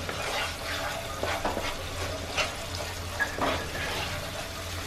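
A wooden spatula stirring and scraping a thick tomato-onion spice paste frying in a pan, with a light sizzle and scattered soft scrapes against the pan.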